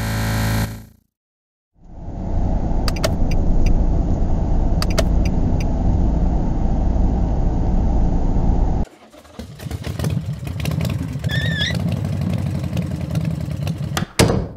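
Car engine sound effect running steadily under a toy car being driven, with a few light clicks. About nine seconds in it cuts abruptly to a second, rougher engine sound with a short squeal, and there is one sharp knock near the end.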